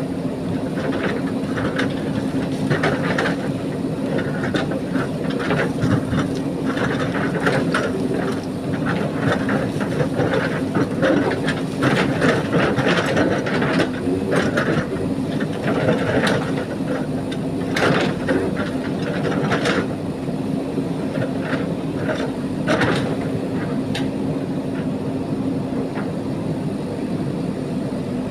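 JCB backhoe loader's diesel engine running steadily under working load, with irregular scraping and clattering as the bucket cuts into and handles gravel.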